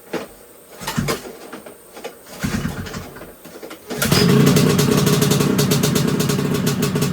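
Ski-Doo Freestyle 300 snowmobile's small two-stroke engine being started on full choke after sitting all off-season: a few short cranking sounds and a brief rough sputter, then about four seconds in it catches and runs steadily with a fast, even beat.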